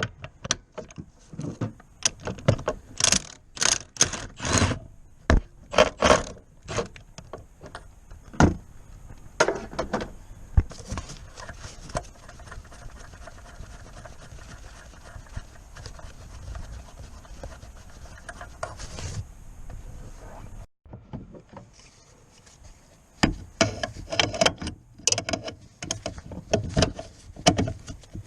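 Hand tools at work on the car: irregular metallic clicks, knocks and clinks, with a quieter stretch in the middle.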